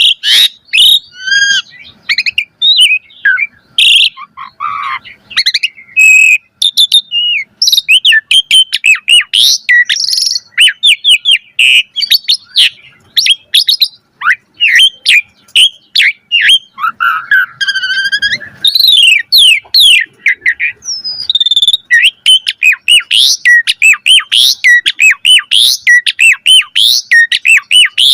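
Asian pied starling singing a long, varied song of rapid whistles, chirps and harsher notes, with a short buzzy phrase past the middle. It ends in a fast run of short repeated notes.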